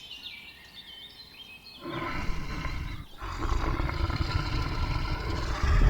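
A few bird chirps, then about two seconds in a lion starts roaring, loud and low. There is a short break near the middle before the roaring resumes.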